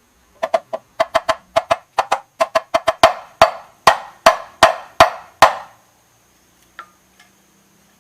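A run of about twenty hammer blows on a metal part: quick, uneven taps at first, then louder, evenly spaced strikes at about two and a half a second, each ringing briefly, stopping suddenly, with one last faint tap a little later.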